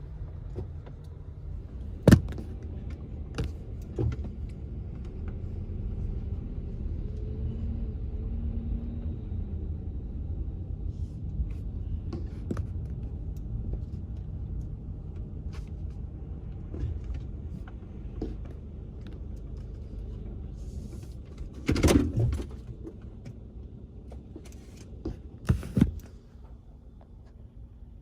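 A car's steady low rumble heard from inside the cabin, with a few sharp knocks and clunks: one loud knock a couple of seconds in and a cluster of clunks near the end.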